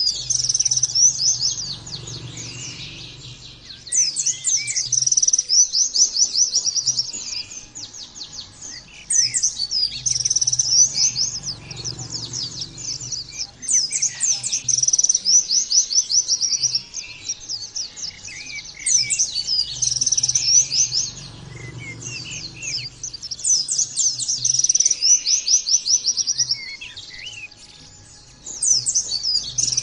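White-eye (pleci) singing in fast, high trilled phrases of two to three seconds each, about six phrases with short pauses between.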